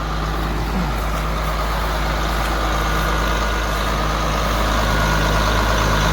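Farm tractor engine running steadily, growing slightly louder, with the tractor stuck in a wet, muddy spot.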